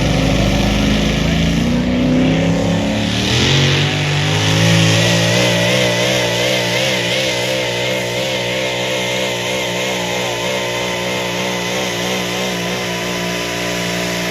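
A pulling vehicle's engine revving hard under load. Its pitch climbs over the first few seconds, then holds high with a rapid wavering for the rest of the run.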